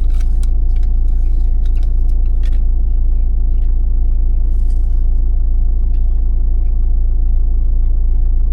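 Truck engine idling with a steady low drone, heard from inside the cab. A few short crinkles of food packaging come in the first couple of seconds.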